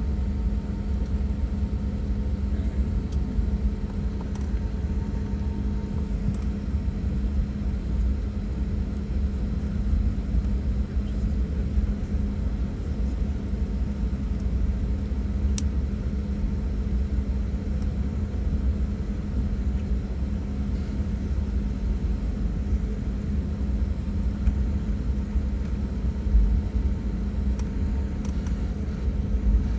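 Steady low rumble and engine hum inside an airliner cabin on the ground after landing, with one faint click about halfway through.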